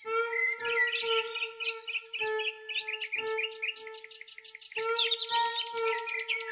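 Birds chirping and trilling, many quick high calls overlapping, over a steady humming tone that drops out briefly a few times.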